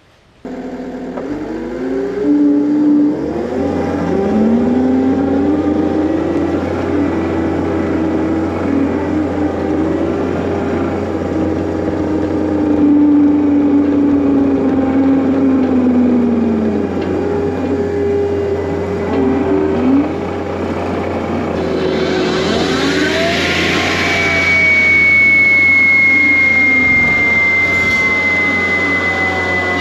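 Diesel engine of a John Deere 333G compact track loader running under working load. Its pitch rises and falls slowly as the revs change. Near the end comes a brief burst of higher noise, then a steady high whine that slowly sinks in pitch.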